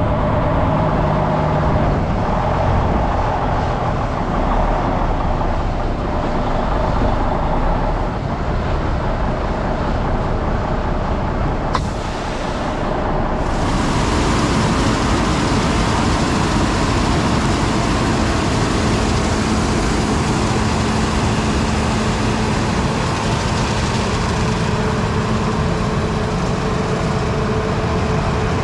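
Heavy vehicle engine running steadily under way, with a sharp click about twelve seconds in, after which the sound turns hissier.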